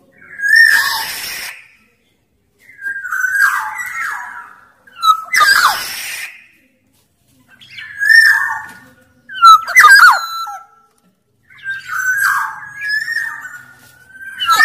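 Black-naped oriole (Sumbawa kepodang) singing: a series of short, loud, fluty whistled phrases, about one every one and a half to two seconds, with brief silences between them.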